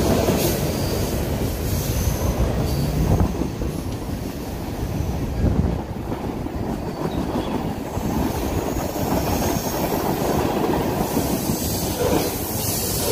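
Freight train of boxcars rolling past on the tracks below: a steady noise of steel wheels running on the rails.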